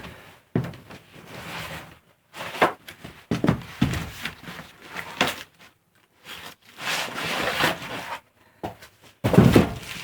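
Loose vinyl floor tiles being handled and set down: a string of irregular knocks, scuffs and rustles, with the loudest knock near the end.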